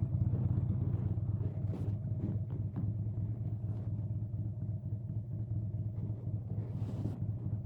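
A steady low engine rumble, with a few faint clicks.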